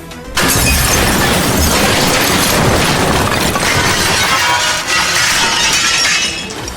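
A collision with crashing and shattering, as of breaking glass and debris. It starts suddenly about half a second in, stays loud for about six seconds, then drops away.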